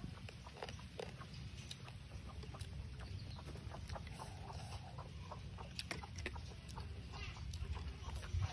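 Close-up eating sounds, chewing and mouth clicks, as food is eaten by hand, with chickens clucking in the background over a steady low rumble.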